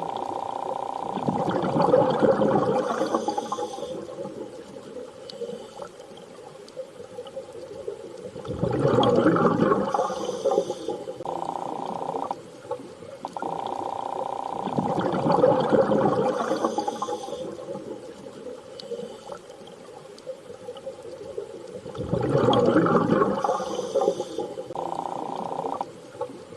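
Underwater ambience: a whooshing surge swells and fades about every six and a half seconds, four times, over a steady hum that drops out briefly twice.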